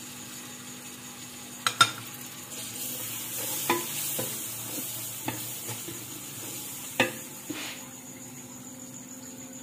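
Onions and tomatoes sizzling in ghee in an aluminium pressure cooker while a wooden spatula stirs them, knocking against the pot several times, loudest about two seconds in and again near seven seconds.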